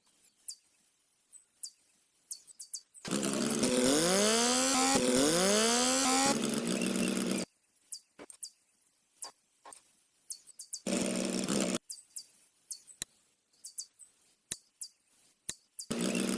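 Small electric motor of a homemade tractor running in bursts: one long run of about four seconds with its pitch wavering, a short burst near the middle, and another starting near the end. Light clicks and taps sound in between.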